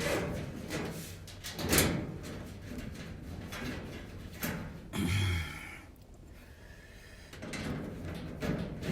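Clunks and knocks of a clothes dryer's parts being handled and fitted back together, the sharpest knock about two seconds in and another heavier clunk about five seconds in.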